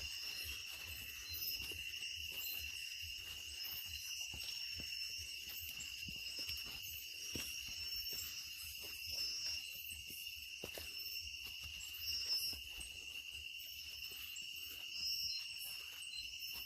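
Nighttime rainforest insect chorus: one steady, unbroken high trill, with several higher-pitched calls pulsing over it, and faint scattered clicks and knocks.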